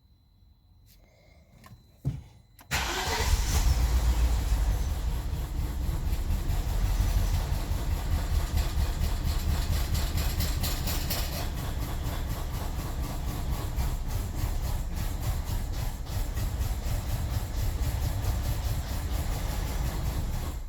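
A click, then the BMW 745Li's 4.4-litre V8 starts and runs with misfires. It stops abruptly near the end as the engine dies. The misfires are on cylinders 8, 3, 7, 6 and 4, with camshaft position sensor codes and fuel cutoff.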